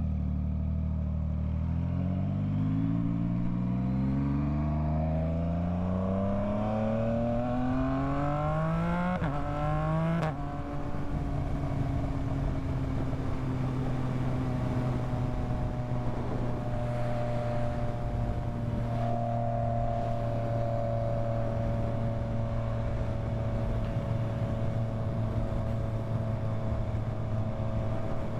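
Yamaha MT-09's three-cylinder engine pulling hard, its pitch climbing steadily for about nine seconds with a brief break for a gear change. About ten seconds in it drops back and settles into a steady cruising note.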